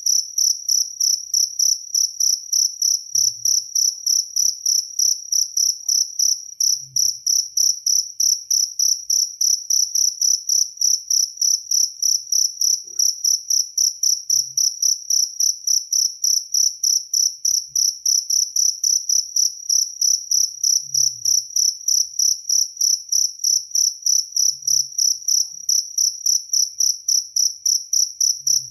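Jaliteng cricket chirping without pause, a high-pitched pulsed trill repeated evenly at about four chirps a second.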